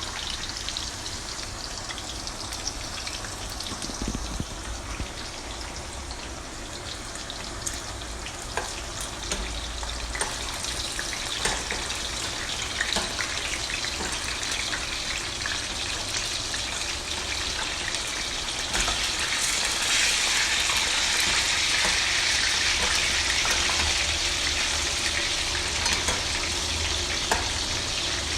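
Boiled chicken pieces deep frying in hot oil: a steady sizzle with scattered crackles and pops, getting louder about two-thirds of the way through.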